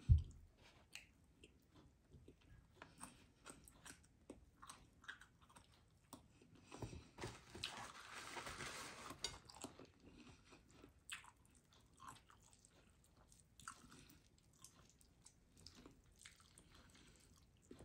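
A person chewing and biting into baked chicken and rice, with soft wet mouth clicks and smacks scattered throughout. A thump right at the start is the loudest sound, and there is a denser crunching stretch of about two seconds around the middle.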